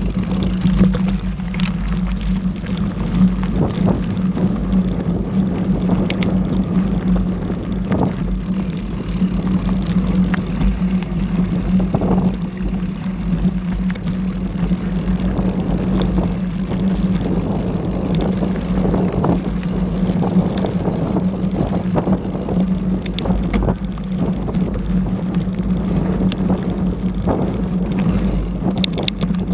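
Mountain bike ridden along a dirt trail: a steady rumble with frequent rattles and knocks from the bike going over the ground, and wind on the microphone.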